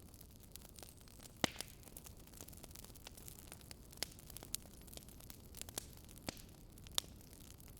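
Faint crackling of a wood fire: irregular sharp pops every second or so over a soft steady hiss.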